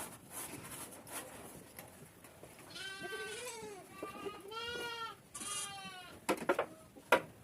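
Goats bleating: three calls in a row from about three seconds in, followed by a few sharp knocks near the end.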